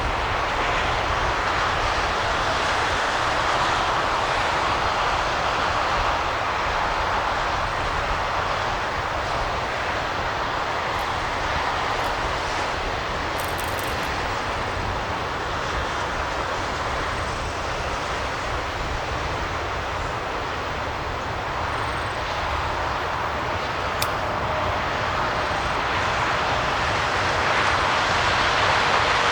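Steady rushing vehicle noise with no clear rhythm, holding at an even level throughout.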